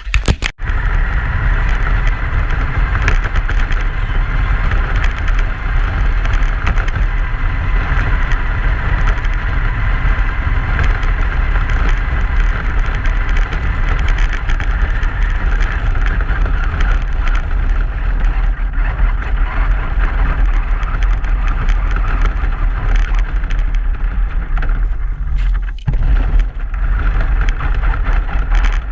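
Truck driving, heard from a GoPro: a loud, steady rumble of engine and road noise with a hiss above it, dipping briefly about 26 seconds in.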